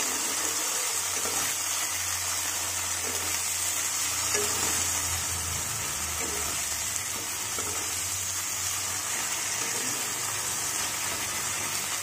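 Spice paste of onion, tomato and ground masala sizzling in oil in a non-stick wok while a metal spatula stirs and scrapes it round: a steady hiss of frying with soft irregular scrapes.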